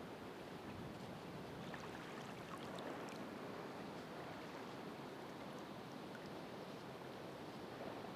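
Ocean surf washing ashore: a steady wash of wave noise with faint scattered crackles.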